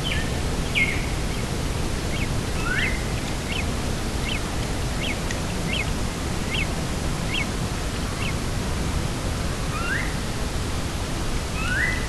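Birds calling over a steady rush of wind. A run of about ten short, high, evenly spaced notes comes from about two seconds in, with a few short rising calls before it and near the end.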